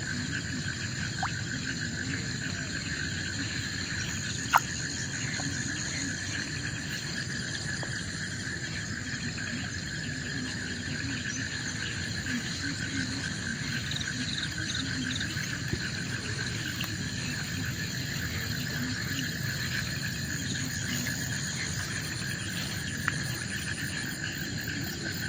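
Steady chorus of forest insects trilling, with several high pitches layered together and a low steady rumble beneath. A sharp click comes about four seconds in and another near the end.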